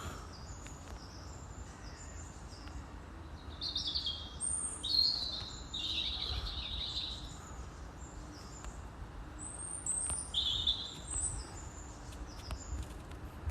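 Small birds chirping and singing in short high phrases, in two spells about a third and three quarters of the way through, over a steady low rumble.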